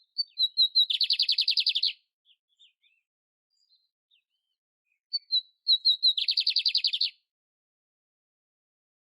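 Canary (canário império) singing: two song phrases about five seconds apart, each opening with a few clear notes and ending in a rapid trill about a second long, with a few faint chips in between.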